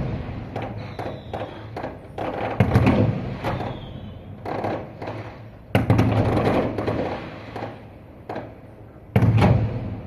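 Fireworks bursting: three heavy booms about three seconds apart, each followed by a second or two of crackling and rumble. Faint short high whistles come in between.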